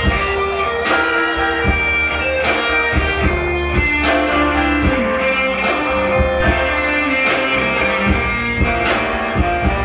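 Stage band playing the instrumental introduction to a slow Mandarin ballad, pitched notes over a steady beat, before the vocal comes in.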